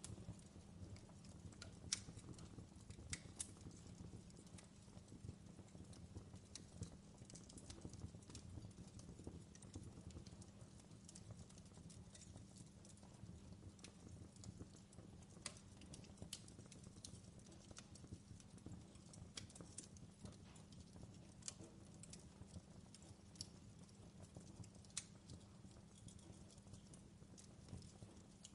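Faint fireplace crackle: a low steady rumble of the fire with scattered sharp pops and snaps at irregular intervals.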